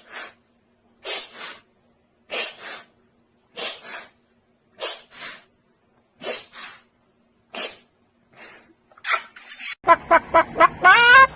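A pet bird making short, breathy, hissing double bursts over and over, about one every second and a quarter. Near the end a louder, pitched bird call comes in, rapidly warbling up and down.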